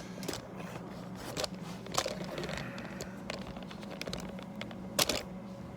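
Scattered clicks and small knocks of hand work, the loudest about two and five seconds in, over a steady low hum.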